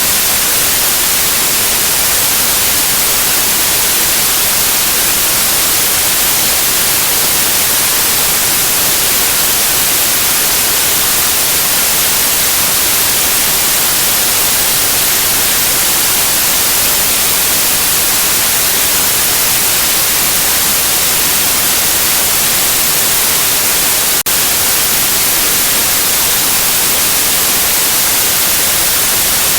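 Steady white noise: an even, loud hiss, brightest in the high frequencies. One very brief break about 24 seconds in.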